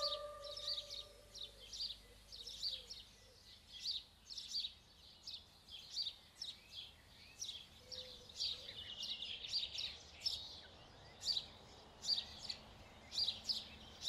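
Small songbirds chirping, a steady run of short high calls, several a second. A held musical note fades out in the first second.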